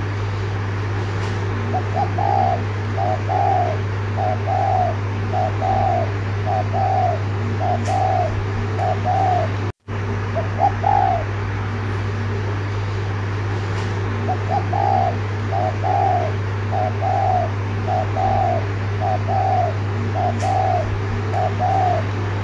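Spotted dove cooing its rapid 'thúc gù' sequence: runs of short coos, about two a second, in two long bouts with a pause of a few seconds between them. A steady low hum runs underneath, and the audio drops out for a moment about ten seconds in.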